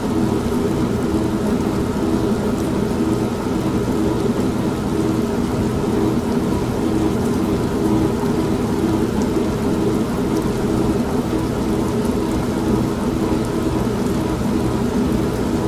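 An old manual washing machine runs with a steady mechanical hum, blended with continuous rain and a low rumble of thunder. The mix stays even throughout, with no sharp thunderclaps.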